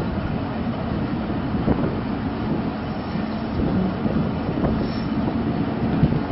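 Pakistan Railways passenger coach running on the rails, heard from its open doorway: a steady rumble of wheels and carriage with a few faint knocks.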